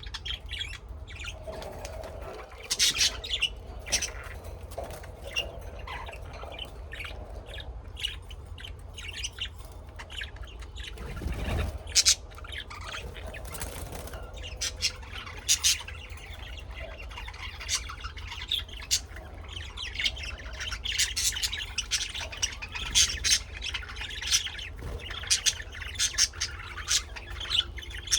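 Birds calling: many short, irregular chirps and squawks, some overlapping, over a steady low rumble. A single dull thump comes about twelve seconds in.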